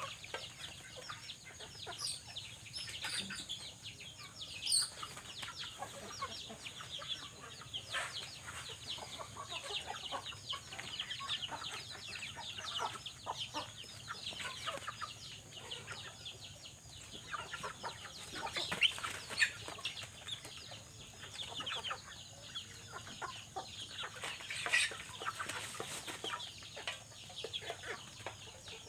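Animal calls: many short, high, falling chirps in a busy, continuous stream, with a few louder calls standing out.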